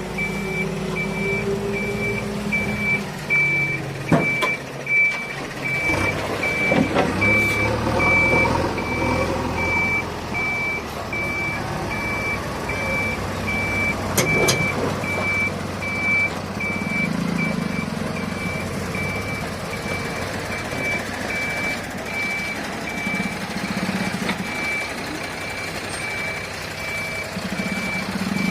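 A vehicle reversing alarm beeps steadily at one high pitch over diesel engines running, at a site where a JCB backhoe loads mud into tipper trucks. A few sharp clanks cut in, about four, six and fourteen seconds in.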